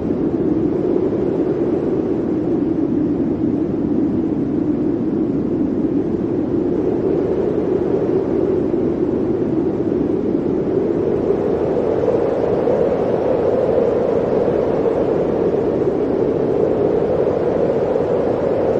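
Blizzard wind blowing steadily: a dense rushing noise with a low howling tone that sinks slightly in pitch and then climbs back up.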